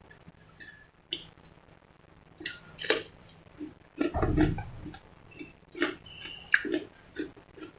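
Close-miked eating sounds: someone chewing crispy fried chicken drumettes, with irregular crunches, clicks and wet mouth smacks, and a louder, deeper sound lasting about half a second about four seconds in.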